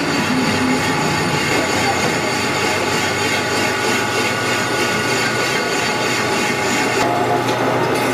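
A machine running steadily with a whine. Its pitch and tone shift slightly about seven seconds in.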